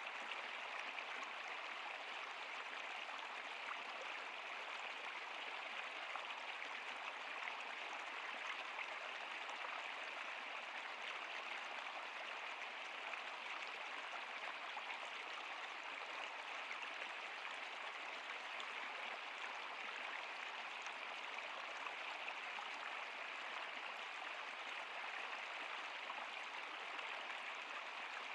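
Flowing stream water, a steady even sound of water running over rocks.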